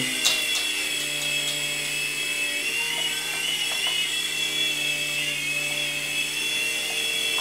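Protocol Tracer Jet toy RC helicopter running: its small electric motors give a steady high whine over a steady lower hum from the spinning rotors.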